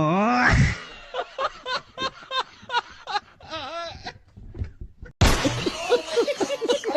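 A quick succession of meme sound-effect clips. A loud held buzzy tone bends upward and cuts off, then comes a string of short squeaky, cartoon-like chirps and boings. After a brief break near the end, a loud, busy clip of many short rising-and-falling pitched sounds begins.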